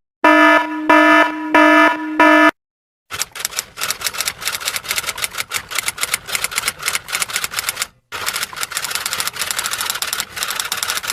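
An electronic alarm sounds four short, loud beeps. Then, after a short pause, a typewriter types in a rapid, steady run of keystrokes with one brief break in the middle.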